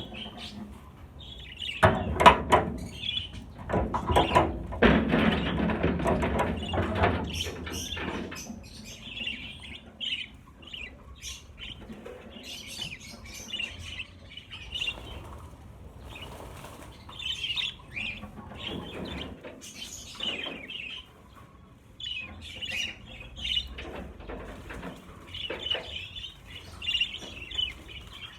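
Flock of budgerigars chattering, with a loud flurry of wing flapping from about two seconds in, lasting several seconds. A few shorter flurries of wingbeats follow among the chatter.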